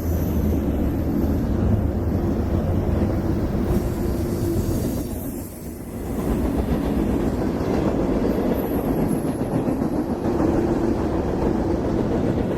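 Freight train rolling past trackside, with steady wheel and car noise on the rails. The sound dips briefly about five and a half seconds in, then picks up again.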